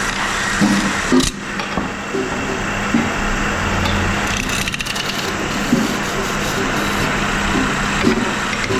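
Factory machinery running with a steady hum, broken by scattered knocks and clanks.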